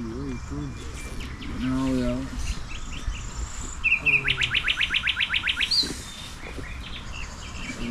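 A songbird singing a fast trill of about a dozen quick downward-sweeping notes, starting about four seconds in after two short high notes. Other, softer bird calls are scattered around it over a steady low rumble.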